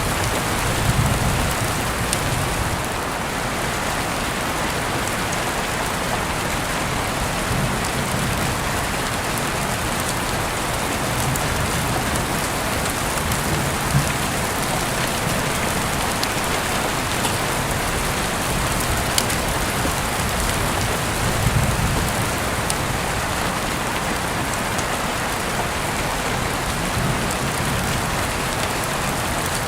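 Heavy rain falling steadily, with sharp ticks of single drops striking close by and a few brief low rumbles.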